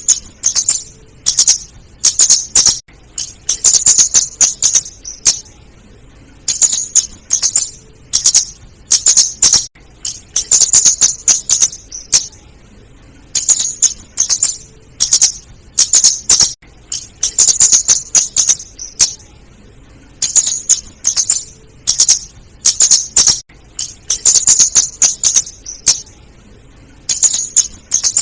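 Female scarlet-headed flowerpecker calls: rapid series of very high, sharp, ticking chips in clusters of one to two seconds, repeating every couple of seconds. This is a looped lure recording.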